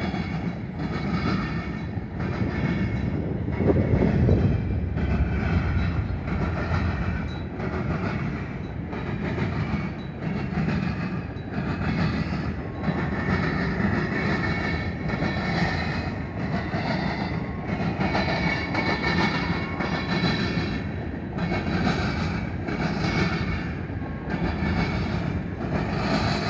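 Freight cars of a long manifest train rolling past, a steady rumble with a regular clatter of wheels on the rails.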